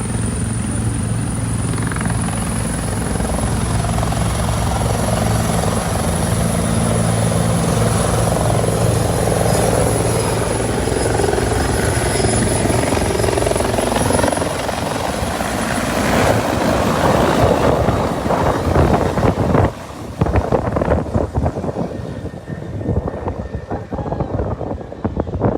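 Police helicopter's turbine and rotors running loudly with a steady drone. About halfway through, the steady engine tones drop away and the rest is irregular gusts of rotor wash buffeting the microphone as the helicopter lifts off.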